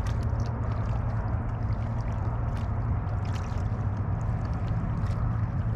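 Kayak paddling: paddle blades dipping and water dripping and gurgling in short irregular splashes, over a steady low rumble.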